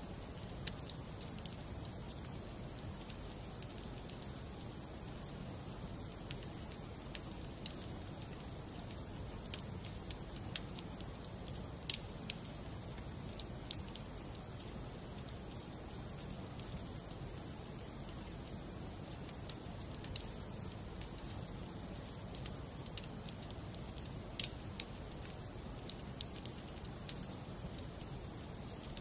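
Wood fire burning in a fireplace: a steady low rush of flame with sharp, irregular crackles and pops from the burning logs.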